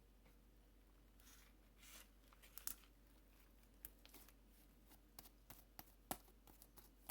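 Slime being squished and pulled apart by hand: scattered small sticky clicks and pops, starting about a second in.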